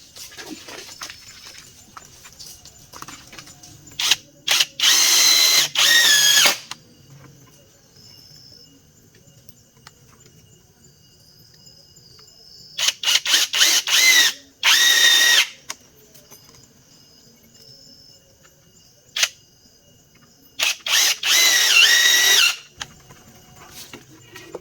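Power drill driving screws into wood in three spells. Each spell is a few short stabs of the motor followed by a longer run, whose whine drops in pitch as the screw seats and the drill stops.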